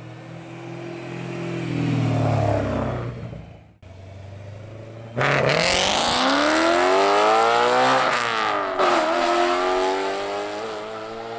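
BMW E92 M3's S65 V8 through a stainless Valvetronic Designs exhaust, revving up under hard acceleration. The revs climb, drop off, then about five seconds in it comes in loud and climbs steeply. There is a brief dip near eight seconds, like a gear change, before it pulls up again and eases off.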